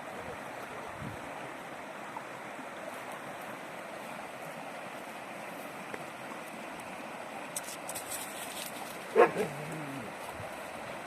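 River water rushing and churning steadily. A dog barks once, briefly, about nine seconds in.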